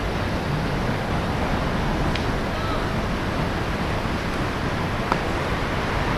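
Steady wind rushing over the microphone at an outdoor baseball field. There is a faint sharp click about two seconds in and a clearer one about five seconds in.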